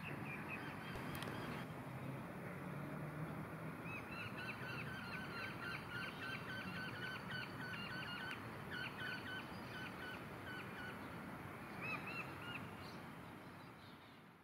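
A bird calling in a rapid run of short, hooked chirps, about three a second, starting about four seconds in and stopping near eleven seconds, with a couple more a second later. Steady outdoor background hiss underneath.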